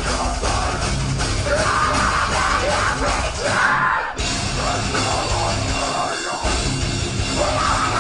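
Metalcore band playing live at full volume: distorted guitars, bass and drum kit with yelled vocals, with brief breaks in the riff about four and six seconds in.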